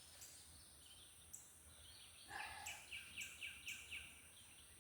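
A bird singing a quick run of repeated chirping notes, about six a second, for roughly two seconds starting a little past two seconds in, over a faint steady outdoor hiss.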